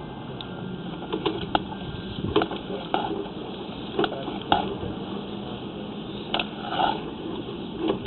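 Sewer inspection camera equipment being worked: irregular clicks and knocks from the push cable and camera head moving through clay sewer pipe, over a steady low hum.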